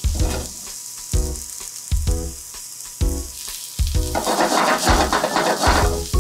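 Sliced new burdock root sizzling as it fries in a frying pan; the sizzle grows louder and denser about four seconds in. Background music with a regular beat plays underneath.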